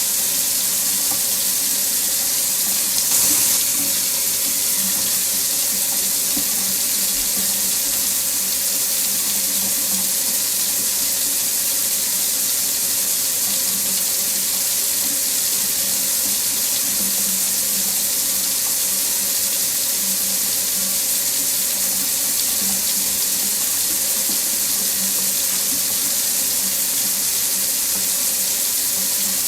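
Tap running steadily into a sink: a continuous even hiss of falling water, with a brief slightly louder splash about three seconds in.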